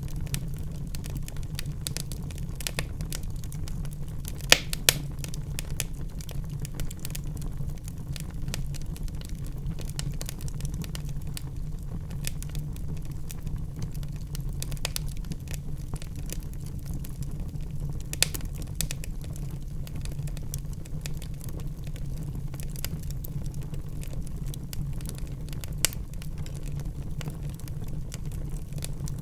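Wood fire crackling in a fireplace: scattered sharp pops and snaps over a steady low rumble, the loudest pops about four and a half seconds in.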